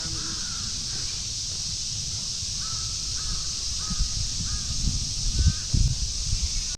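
A crow cawing, a quick series of about five short caws, over a steady high hiss, with a few low thumps in the second half.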